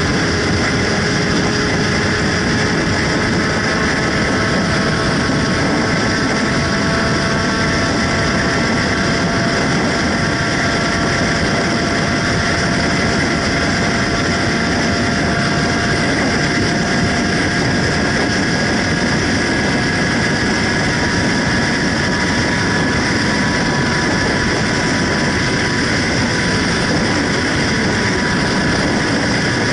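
Steady, unbroken din of motorcycle engines running, with a few faint engine tones drifting slowly up and down.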